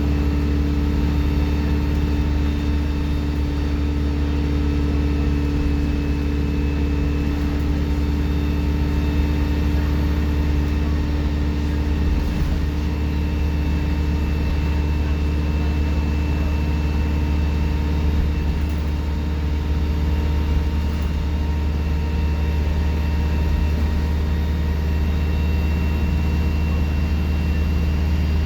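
Alexander Dennis Enviro 200 single-deck bus's diesel engine running steadily, with a thin, steady high-pitched turbo whistle over the engine note.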